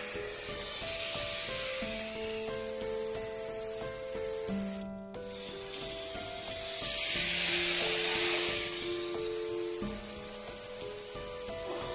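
Steady rain hiss under a slow ambient music pad of held chords changing every second or two. The sound cuts out briefly about five seconds in, and the rain swells louder a couple of seconds later.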